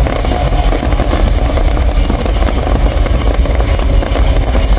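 Fireworks display at full intensity: continuous dense crackling and popping from many shells bursting at once, over a constant low rumble.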